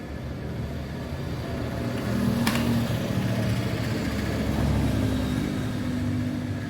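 A motor vehicle engine running, growing louder toward the middle and easing off near the end, with a sharp click about two and a half seconds in.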